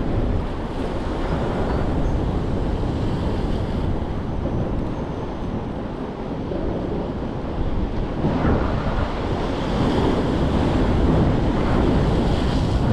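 Wind buffeting the microphone: a rough, rumbling outdoor roar that swells a little about eight seconds in.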